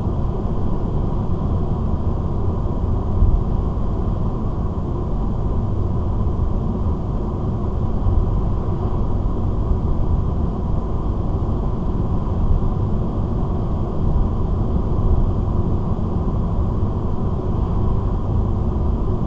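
Steady road and engine noise inside a car's cabin cruising at about 80 km/h on a highway: an even low rumble of tyres and engine, with a faint steady high tone running through it.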